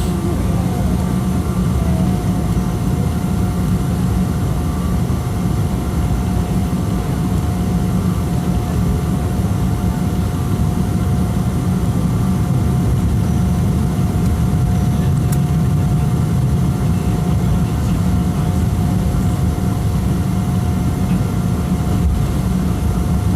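Steady cabin noise inside a Boeing 777-200 with its engines running: a loud, even low rumble of engine and air noise with a faint steady whine above it.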